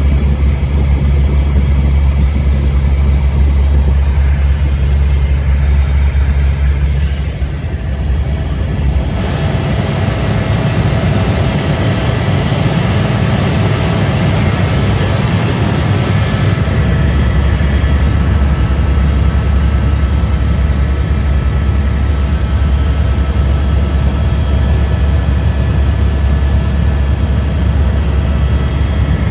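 Helicopter engine and rotor running, a loud steady drone. Its deepest part falls away about seven seconds in and comes back about sixteen seconds in.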